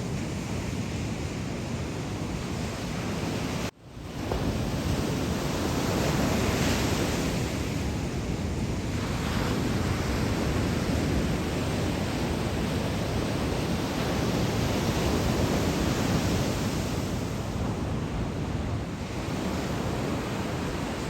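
Ocean waves breaking on a beach in a typhoon swell, a steady wash of surf noise with wind. About four seconds in, the sound cuts out for a moment and fades back in.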